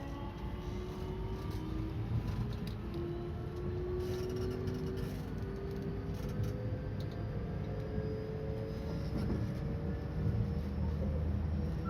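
Electric multiple-unit train running, heard from inside the car: a low rumble from the rails under a whine of several tones from the traction motors and inverter that slowly rises in pitch as the train gathers speed.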